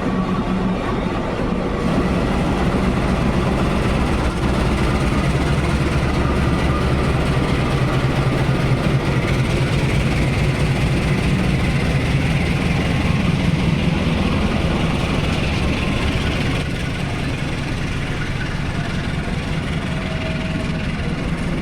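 Train running on the rails, a steady loud rumble of wheels and engine that eases off a little near the end.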